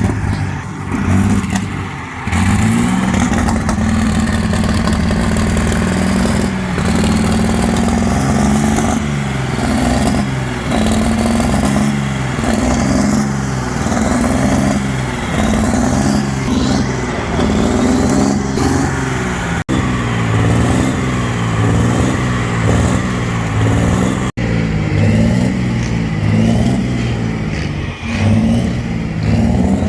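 Engine of a heavily modified pulling tractor running loudly and being revved, its pitch stepping up and down about once a second as the throttle is blipped.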